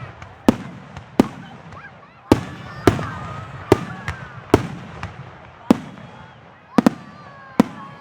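Aerial fireworks shells bursting in quick succession: about ten sharp bangs in eight seconds, each trailing off in an echo, with crackling between them and a close double bang near the end.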